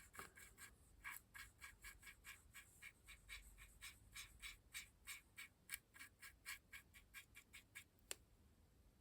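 Stiff brush scrubbing powder pigment into a model locomotive's bodywork in quick, faint strokes, about three a second. A single sharp click near the end.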